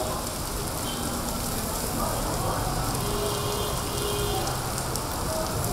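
Heavy rain falling steadily on a wet paved street, an even hiss of downpour.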